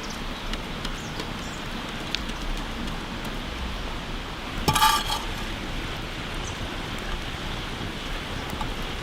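Outdoor cooking sounds: a steady hiss with scattered small ticks, and one short, ringing clink of a cooking utensil about five seconds in.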